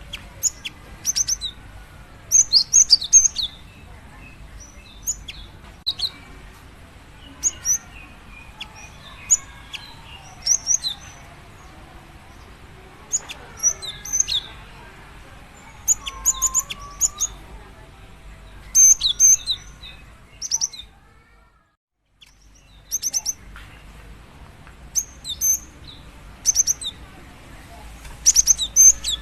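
Female cinereous tit (gelatik batu) calling to a male: clusters of short, high chirps repeated every second or two. A brief gap of silence falls a little past two-thirds of the way through.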